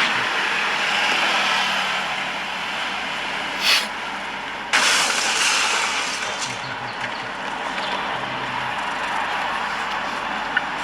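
Steady street traffic noise, with a short burst about three and a half seconds in and a sudden louder rush about a second later that slowly settles.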